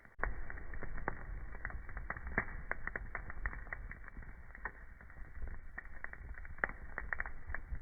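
Wood fire crackling: irregular sharp pops and snaps over a low steady rumble of the burning, which steps up in loudness just after the start.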